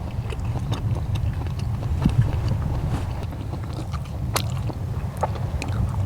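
Eating sounds: scattered light clicks and taps of utensils and chewing, one sharper click about four and a half seconds in, over a steady low rumble.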